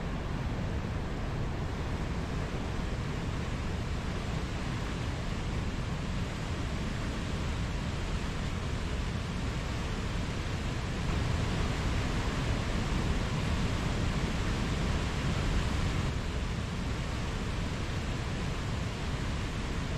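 Mountain stream flowing steadily, a continuous rush of water that swells a little about halfway through and eases back a few seconds later.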